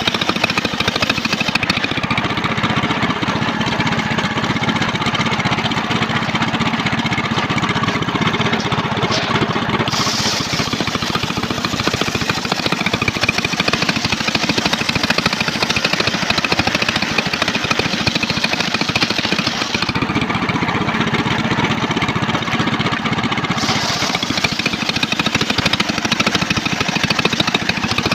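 Homemade engine-driven circular sawmill running steadily while sawing a trembesi (rain tree) log, its sound shifting a few times as it works.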